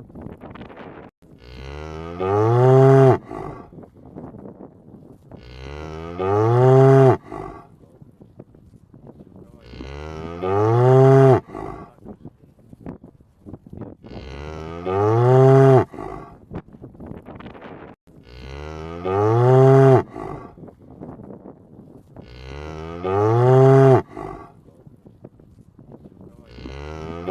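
A cow mooing over and over, about every four seconds, six times. Each moo is a long call that rises and then falls in pitch, and the moos sound alike.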